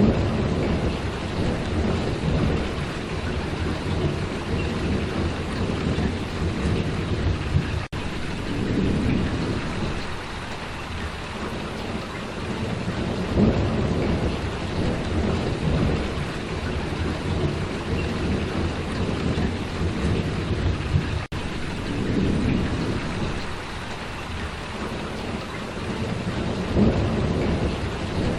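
Steady heavy rainfall with a low rumbling undertone that swells and ebbs, briefly cutting out twice.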